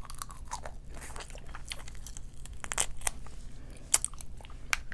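Close-miked eating of boiled seafood: chewing and mouth smacks with irregular sharp clicks, a few louder ones in the second half.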